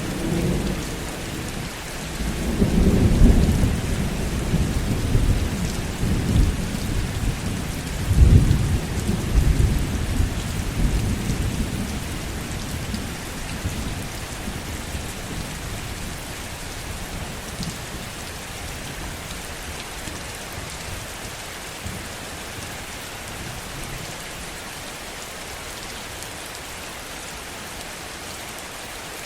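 Heavy rain falling steadily, with a long roll of thunder that swells twice, about three and eight seconds in, and dies away by about twelve seconds in, leaving the even hiss of the rain.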